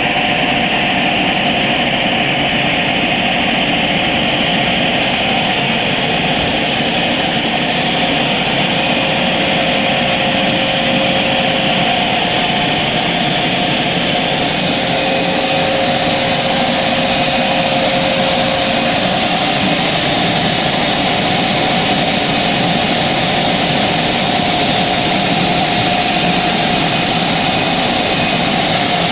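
Automatic car wash equipment running: a loud, steady rush with a constant hum.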